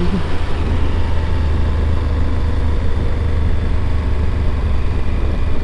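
Motorcycle running steadily on the road, its low engine rumble mixed with wind and road noise on the bike-mounted microphone.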